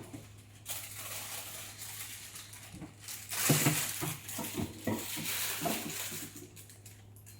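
Irregular rustling and light knocks of things being handled, louder for a moment about three and a half seconds in, over a steady low hum.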